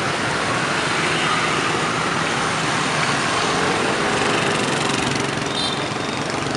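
Dense motorbike traffic: many small motorbike and scooter engines running together in a steady wash of engine noise.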